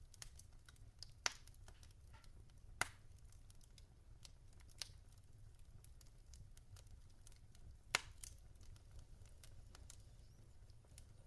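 Logs burning in a fireplace, crackling softly with scattered sharp pops, the loudest about 3 and 8 seconds in, over a low steady hum.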